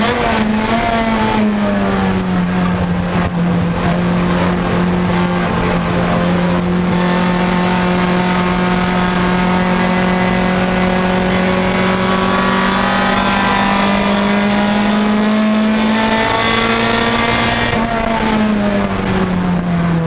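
Nissan Pulsar race car's SR20 four-cylinder engine heard from inside the cabin under track driving. The revs drop from near 7,000 rpm as the throttle closes at the start, then hold fairly steady around 5,500 rpm on part throttle, climb briefly about 16 seconds in and fall again near the end as the throttle shuts. Road and wind noise run underneath.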